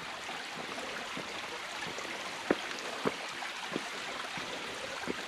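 Creek water running steadily over rocks, with a few light knocks a little past halfway.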